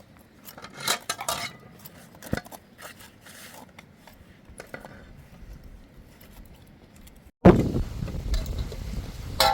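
Dishes and cutlery clinking and scraping, a scatter of light knocks and clinks. About seven seconds in it cuts off abruptly and a loud, steady low rumbling noise takes over.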